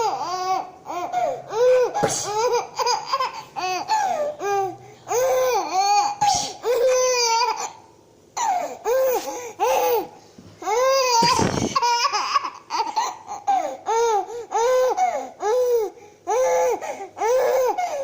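Baby laughing in long runs of short, rhythmic chuckles, about two a second, with a brief pause about halfway through. A few short, breathy noise bursts are heard between the laughs.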